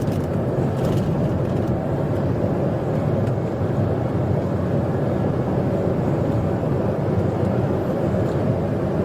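Steady road and engine noise of a police car driving fast during a pursuit, dense and low with no siren wail.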